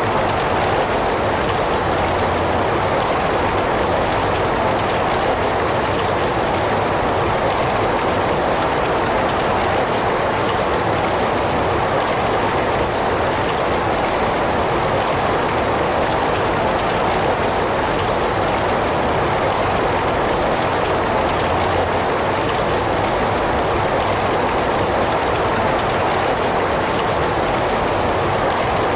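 Heavy rain falling steadily, a dense, even hiss of drops on surfaces with no breaks or changes.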